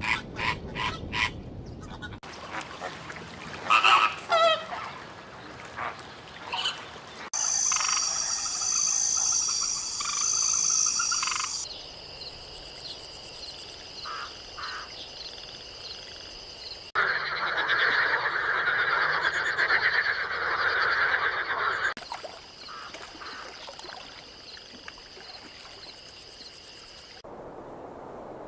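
Rainforest frogs calling, in a string of short segments that change abruptly every few seconds: rapid repeated croaks, chirping calls and dense steady choruses.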